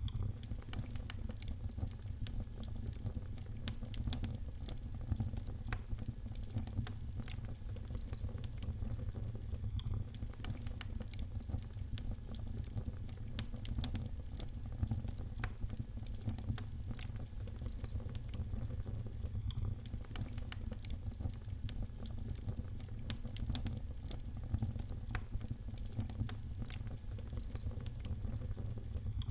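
Fire in a fireplace crackling: many sharp pops and snaps, close together and uneven, over a steady low rumble.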